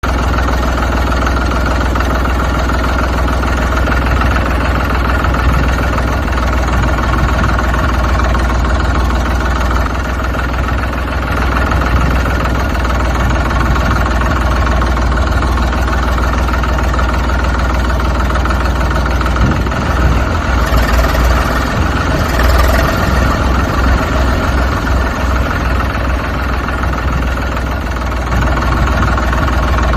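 A heavy vehicle's engine idling steadily, with a deep hum. About twenty seconds in, the engine throbs unevenly for a few seconds before settling back.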